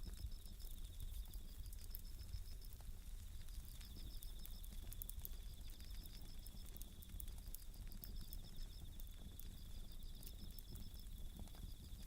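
Bell crickets (suzumushi) trilling in repeated high-pitched pulsed phrases, over a wood campfire crackling with scattered sharp pops and a steady low rumble.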